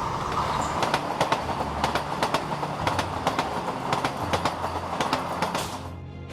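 Train running along the rails, its wheels clicking over rail joints a few times a second over a steady rumble. The sound drops away about six seconds in.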